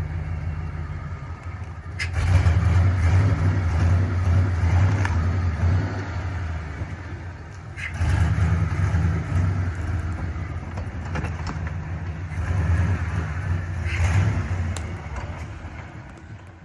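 A vehicle engine running with a low, steady drone that swells louder three times and fades toward the end.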